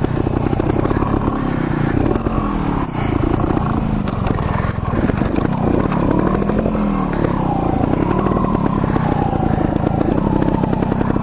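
Two-stroke trials motorcycle engine running at low speed, its pitch rising and falling again and again with the throttle as the bike is ridden over an obstacle section.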